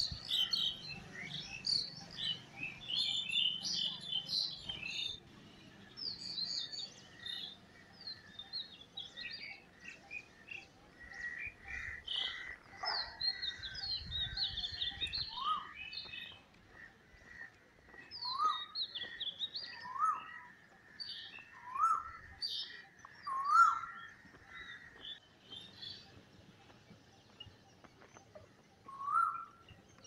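Several wild birds chirping and singing together, with many quick high chirps and trills. Through the second half one bird repeats a short upswept call every second or two, and a steady high tone runs beneath the chirping through the middle.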